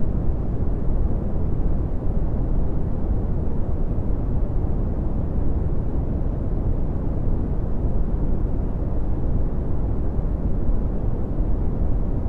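Red (Brownian) noise: a steady, deep rumbling hiss, heaviest in the bass and dropping off toward the treble, without any change.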